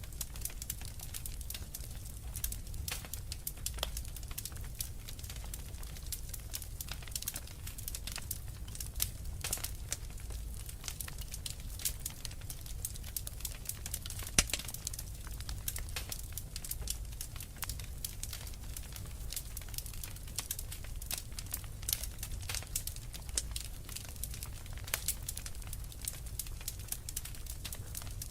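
Wood fire crackling, with many small irregular pops and one louder pop about halfway through, over a steady low rumble.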